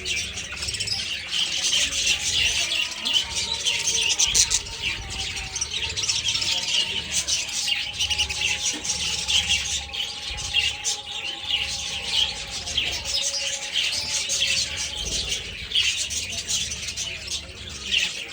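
A flock of budgerigars chirping and chattering all at once, a dense, unbroken mass of high, short chirps.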